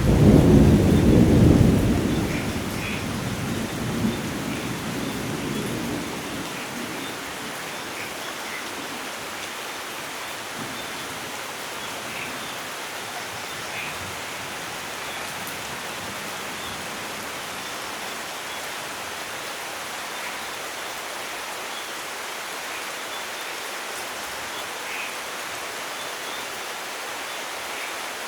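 Thunder rumbling loudly at the start and dying away over the first few seconds, leaving steady heavy rain falling, with scattered drops ticking.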